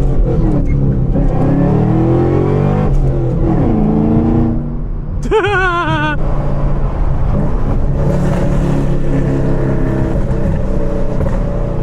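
A sports car engine, the GT4-converted Porsche Cayman, revving and accelerating, its pitch climbing and dropping several times before settling into a steadier drone. Someone gives a brief high whoop about halfway through.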